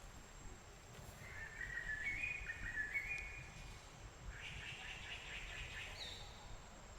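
Songbird singing in a forest: a phrase of quick stepped notes, then about four seconds in a fast trill that ends on a short high note, over a faint low rumble.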